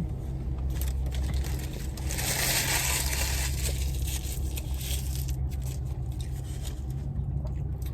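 Fast-food paper packaging crinkling and rustling as it is handled, densest about two to three and a half seconds in, over a steady low hum.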